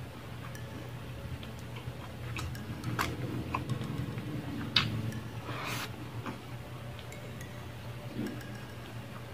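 Close-miked eating sounds: chewing and wet mouth clicks from a mouthful of garlic fried rice and garlic longganisa. The clicks come scattered and are loudest around the middle, over a steady low hum.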